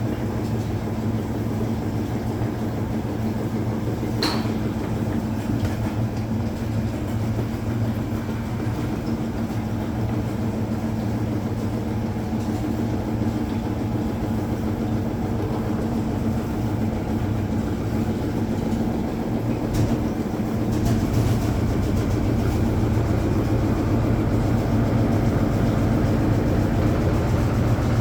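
Hoover Automatic 820 washing machine running steadily, its motor and drum making a low hum. A brief click comes about four seconds in, and the sound gets a little louder about three-quarters of the way through.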